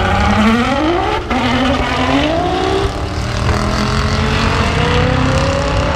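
Race cars accelerating hard down a drag strip, engine notes climbing in pitch through the gears. There are shifts about one second and three seconds in, then a long slow rise in pitch.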